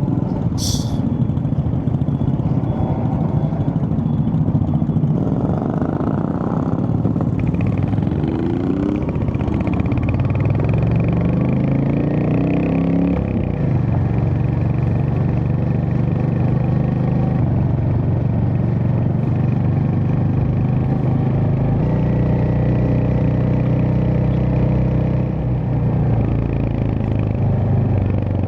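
Motorcycle engine running. About eight seconds in it revs up in a few rising pulls as it gets under way, then runs steadily.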